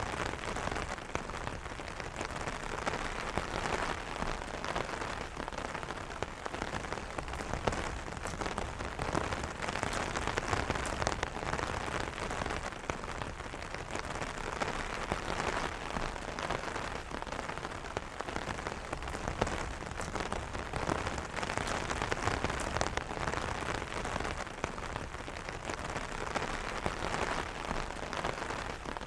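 Steady rain pattering on an umbrella canopy, a dense patter of individual drop hits with no thunder.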